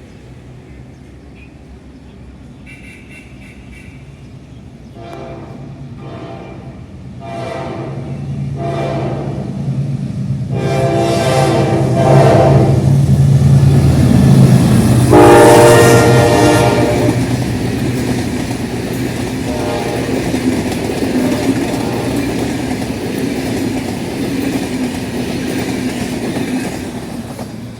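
General Electric diesel locomotive approaching and passing with its train, sounding its horn: several short blasts, then two longer ones, the second the loudest. The engine and wheel noise builds, peaks in the middle and fades away.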